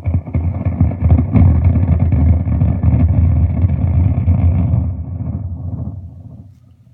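Echo Royale delay pedal through an amp, making a loud, dense rumbling noise as the delay control is turned up, which fades away near the end. The owner suspects a bad pot.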